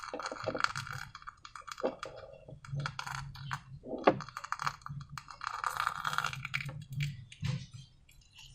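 Slime being worked by hand, an irregular run of small sticky clicks and crackles, thicker in two patches.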